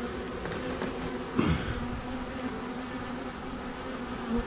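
Honey bees buzzing in the air with a steady hum, stirred up as they are driven out of a box with repellent spray. About a second and a half in, a brief louder buzz falls in pitch.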